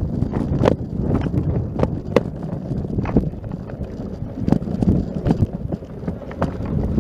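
Irregular footsteps, about one or two a second, over a low rumble of wind on the microphone.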